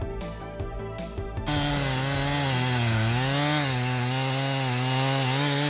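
Background music that cuts off about a second and a half in, replaced by a gas chainsaw running at high revs; its pitch sags for about a second as it takes load in the wood, then picks back up.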